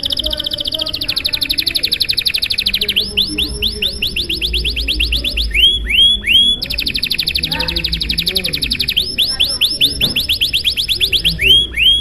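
Domestic canary singing a long, unbroken song: fast, high trills of rapid repeated notes alternate with runs of downward-sweeping whistled notes, phrase after phrase.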